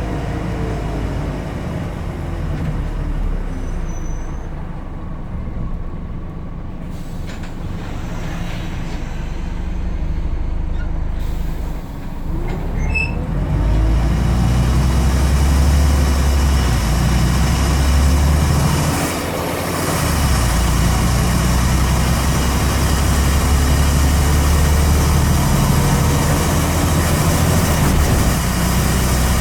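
Scania N94UD double-decker bus's diesel engine heard from the rear of the bus. It runs quieter for the first several seconds, then grows louder about twelve seconds in as the bus pulls away under power. It dips briefly about twenty seconds in, at a gear change, and pulls on.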